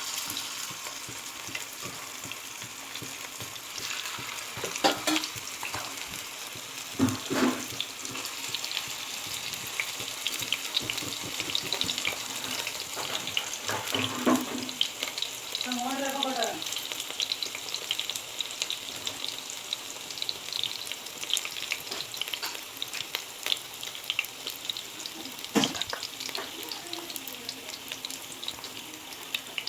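Hot oil sizzling and crackling in a pan as stuffed appalam squares deep-fry, with a few knocks of a utensil against the pan.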